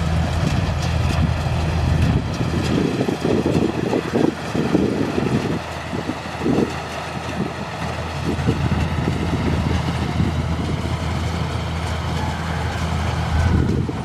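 Kubota rice combine harvester's engine running steadily, with uneven rushing noise that swells and fades over the low drone.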